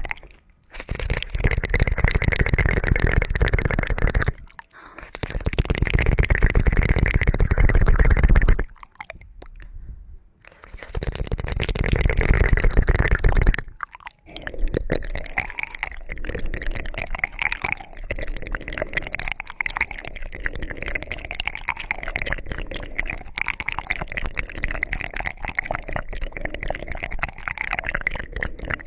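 ASMR ear-cleaning sounds: close, dense crackling, scratching and rubbing on the microphone. It comes in three bursts of a few seconds with short pauses, then runs on as a steadier crackle from about halfway.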